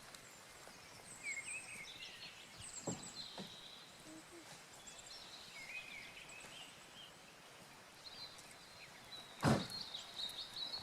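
Small birds chirping and singing in short repeated phrases, with a few soft knocks and one louder knock near the end.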